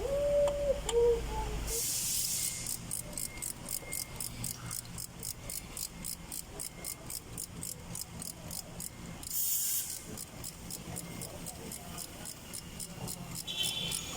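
Chevrolet Spark engine running, then shut off about two seconds in. After that comes a steady, high-pitched ticking at about four beats a second, with a brief hiss in the middle.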